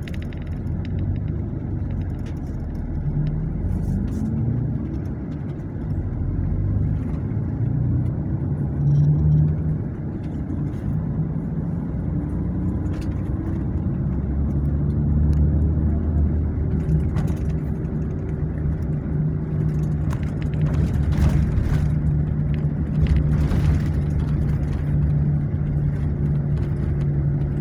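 A road vehicle's engine and road noise while driving, a steady low hum. The engine pitch rises as it picks up speed a few seconds in, then climbs slowly again further on.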